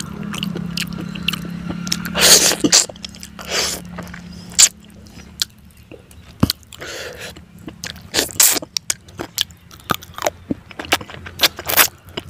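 Close-miked chewing and eating by hand: a string of wet mouth clicks and smacks, with a few longer noisy bursts in between. A low steady hum fades out about halfway through.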